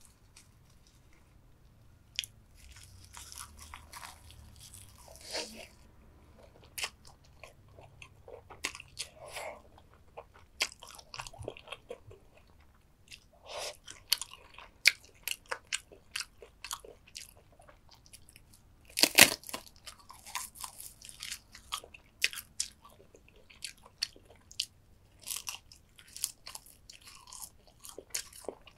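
Close-up eating sounds of soy-sauce-marinated raw crab: shells crunching and cracking between the teeth, with chewing in between. The cracks are sharp and irregular, and the loudest comes a little past the middle.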